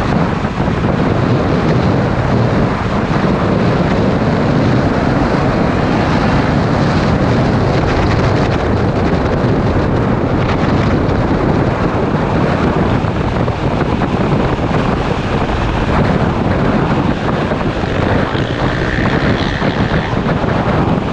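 Wind rushing and buffeting over a motorcycle-mounted camera microphone while riding at speed, with the bike's engine and road noise underneath, steady throughout.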